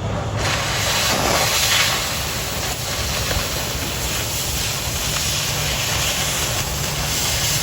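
Oxy-fuel cutting torch blowing through 1/4 inch steel plate, a steady loud hiss that swells sharply about half a second in as the cut starts from a pre-drilled hole at kindling temperature.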